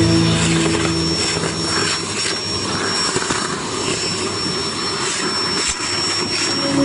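Vacuum cleaner running: a steady rushing of air with a thin high-pitched whine over it. Faint music fades out about a second in.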